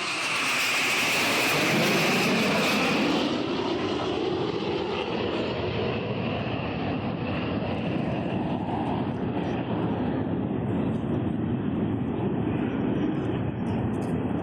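Fixed-wing aircraft flying past. Its engine noise is loudest and sharpest over the first three seconds, then drops to a steady, duller rumble as it moves away.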